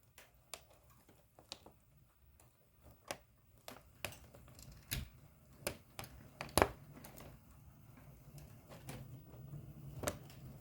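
HO scale model train rolling along its track: irregular sharp clicks of the wheels over the rail joints, over a low steady hum.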